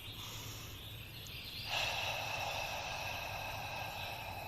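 Ujjayi breath: a slow exhale pushed through a contracted throat, giving a long hoarse hiss like fogging a mirror. It starts a little under two seconds in and fades near the end.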